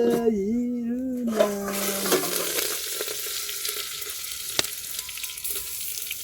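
A long, steady, drawn-out animal call for the first two seconds. Then food drops into hot oil with a sudden hiss and goes on sizzling steadily in the pan.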